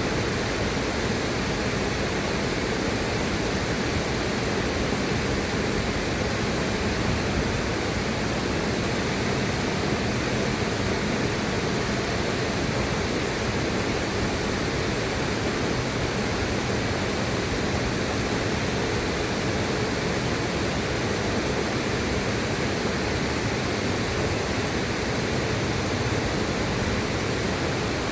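Steady rushing of river water, an even unbroken noise with no change in level.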